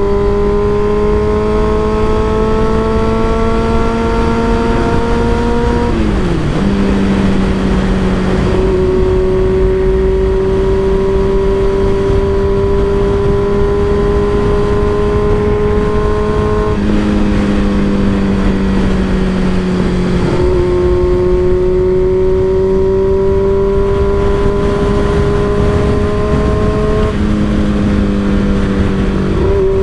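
Sport motorcycle with an M4 aftermarket exhaust running on the road. Its exhaust note climbs slowly in pitch and drops sharply several times. A steady low rush of wind noise runs under it.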